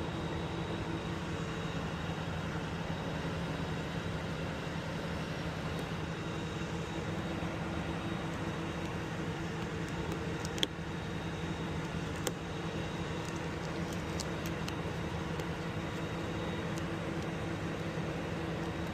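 Steady hum of an idling engine, with two sharp clicks about halfway through.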